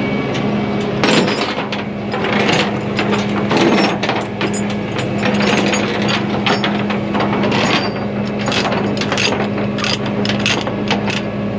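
Metal clicking and rattling of tie-down chains and a ratchet being worked as a load is chained down, over a steady low engine hum.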